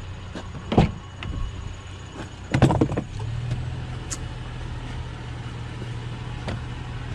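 Vehicle engine idling steadily, with a sharp knock about a second in and a louder clatter of knocks a little later, after which the engine hum grows steadier and stronger.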